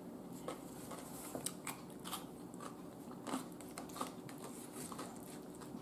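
Close-miked chewing of crisp seasoned cucumber slices: a series of faint, short crunches.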